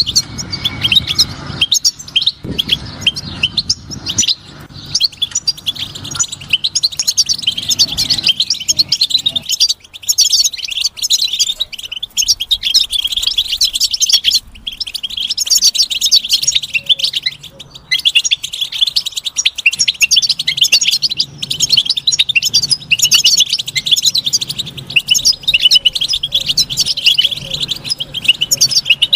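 Goldfinch singing a long, fast twittering song of rapid chirps and trills, with a few brief pauses.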